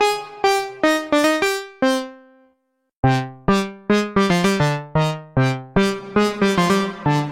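Waldorf Pulse 2 analog monosynth playing a plucky preset: a quick melodic run of sharp-attack notes that decay fast. The phrase rings out to a brief silence about two and a half seconds in, then a new run of notes with a heavier low end begins.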